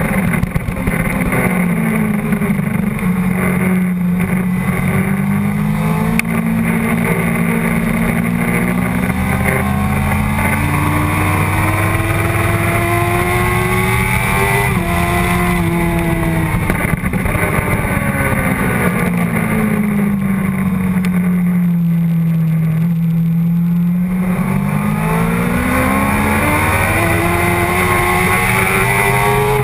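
Sportbike engine running hard on a racetrack, heard from a camera on the bike's tail. Its pitch climbs steadily for about the first fifteen seconds, falls away as the rider rolls off, stays low for a couple of seconds, then climbs again over the last few seconds.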